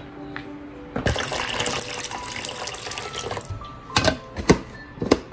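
Water running from a tap into a sink, starting about a second in, with a few sharp knocks near the end.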